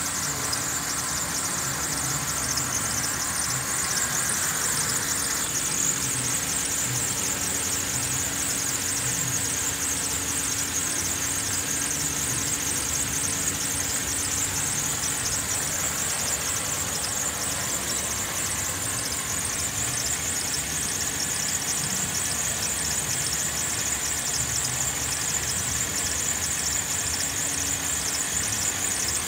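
Holden Commodore 3.6-litre Alloytec V6 engine idling steadily, with a steady high-pitched hiss over its running.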